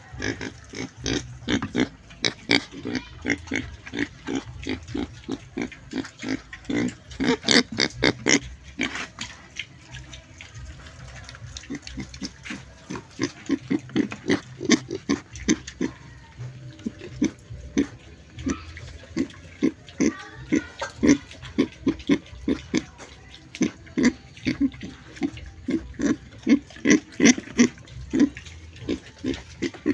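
Pig grunting in a rapid run of short grunts, several a second, louder in stretches about a quarter of the way in and again near the end.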